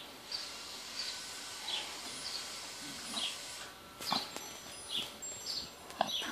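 A bird chirping over and over, short falling notes a little more than once a second, over a soft rustle of grass as a dog rolls on its back. Two sharp clicks come in the second half.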